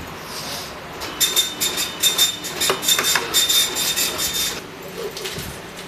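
Metal parts of a universal bevel protractor being slid and adjusted against each other, giving a run of scraping strokes with a high squeak through them for about three seconds, starting about a second in.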